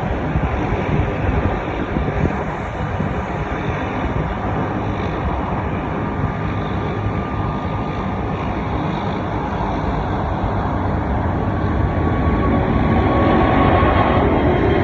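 Jet airliner engines: a steady rumble with a faint whine, growing louder over the last few seconds.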